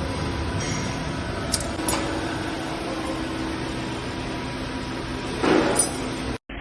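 Wire-forming and welding machinery for gas-stove grates running steadily with a hum, with two sharp metallic clinks in the first two seconds and a short, louder rush of noise near the end before the sound cuts off suddenly.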